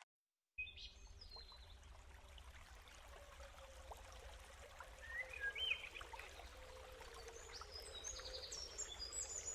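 Faint outdoor ambience that comes in about half a second in: a low steady hum with bird chirps scattered through it, more of them near the middle and toward the end.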